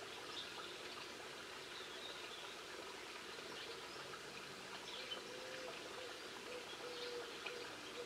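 Scattered short, high chirps and calls from small garden birds over a faint steady background hiss. A faint low tone comes and goes in the second half.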